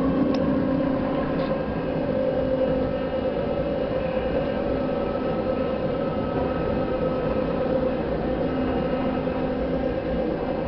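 Narrow-gauge electric railcar of the Mürren mountain railway running along the line, heard from inside the car. It makes a steady hum and rumble that keeps an even level throughout.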